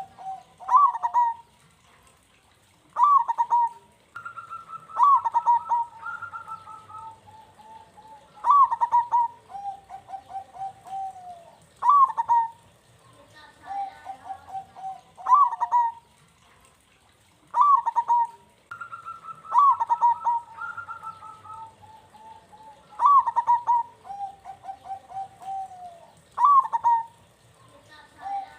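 Zebra dove (perkutut) singing: a repeating cooing phrase, each opening with a loud, sharp note and running on into a quick string of lower staccato coos, about every three seconds.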